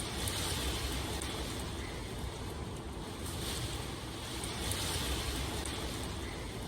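Steady rain falling, a continuous rushing hiss that swells and eases every few seconds, with faint scattered drop ticks.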